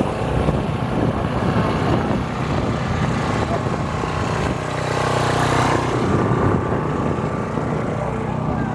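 An engine running steadily, with a brief swell of louder noise about halfway through.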